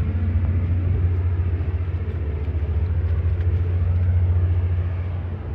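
Standby generator's engine running steadily, a loud low hum with a fast even throb, while it supplies power during an outage.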